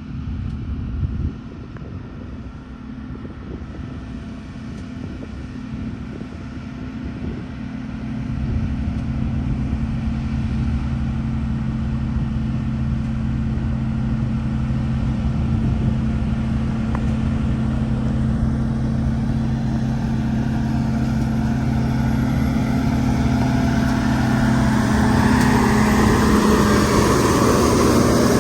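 Sakai road roller's diesel engine running steadily with an even hum, with a brief knock about a second in; it grows louder about eight seconds in and again near the end, as if working closer or under more load.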